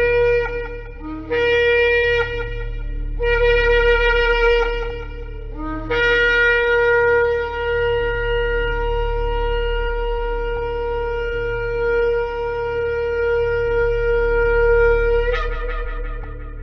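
Shofar (ram's horn) being blown: three shorter blasts, then one long held blast of about nine seconds that breaks upward in pitch just before it ends. A steady low drone runs beneath.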